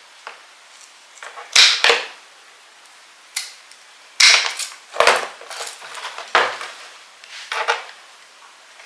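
Hand pruners snipping into dahlia tubers: about eight sharp snaps at uneven intervals, some in quick pairs, as pieces of tuber neck are cut off the clump.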